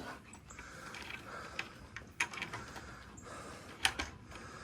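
A few scattered mechanical clicks and rattles, the loudest near the end.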